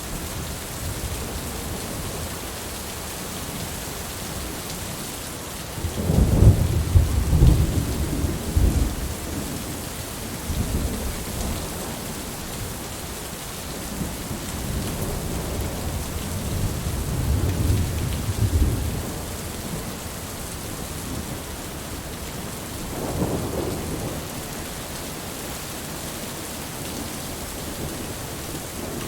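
Steady rain falling, with rolls of thunder rumbling over it. The loudest roll comes about six seconds in, a longer, softer one around the middle, and a short one near the end.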